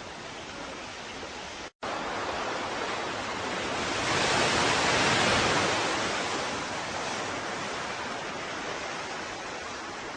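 Ocean waves: a steady surf hiss, broken by a split-second gap, then one wave swelling in about four seconds in, peaking, and slowly washing out.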